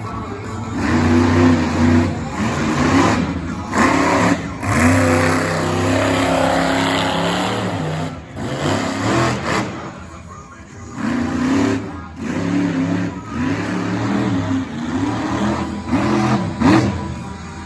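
Monster truck engine revving hard and easing off again and again through a freestyle run, its pitch climbing and dropping with each throttle stab, with a few brief lulls.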